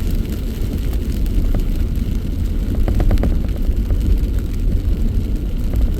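Vehicle interior with the window down while driving slowly in heavy rain: a steady low rumble of road and wind noise, with a few brief clicks about halfway through.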